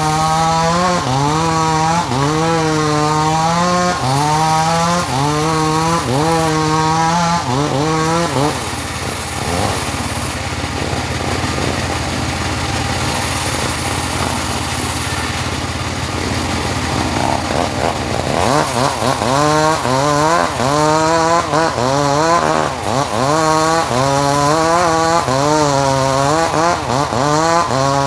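Engine-driven portable bandsaw mill running and cutting teak. Its engine pitch rises and falls about once a second for the first several seconds and again over the last ten. In between, from about 8 to 18 seconds in, there is a steadier stretch of sawing noise.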